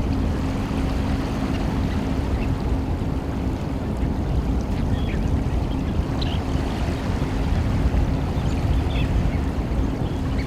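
Steady low rumble of wind and surf, with a low steady hum over the first few seconds. Faint, short, high piping calls of Eurasian oystercatchers come through about five seconds in and again near the end.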